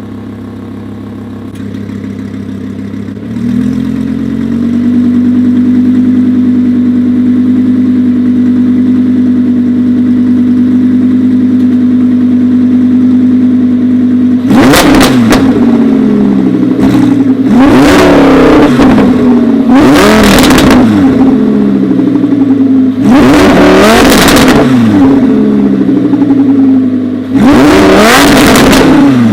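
Lamborghini Huracán's 5.2-litre V10 through an Fi Exhaust valvetronic cat-back, idling steadily, with the idle note growing louder about three seconds in. In the second half come five sharp revs, each rising and falling back to idle.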